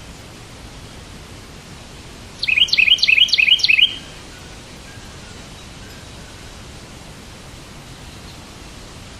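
A bird calling: one quick run of about six sharp, high chirps, each sliding down in pitch, some two and a half seconds in and lasting about a second and a half, over a steady background hiss.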